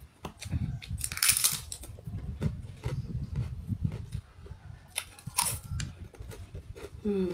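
Close-up eating sounds: a person chewing a mouthful of rice and fish with wet lip smacks and small clicks, with two short hissing breaths, one about a second in and one past the five-second mark. A short hum of enjoyment rises near the end.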